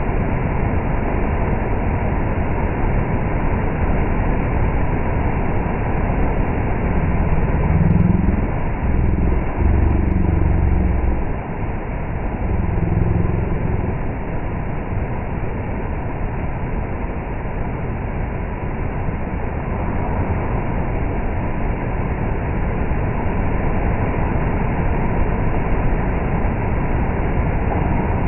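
Heavy rain pouring steadily. Around eight seconds in, a deep low rumble swells for a few seconds and dies away.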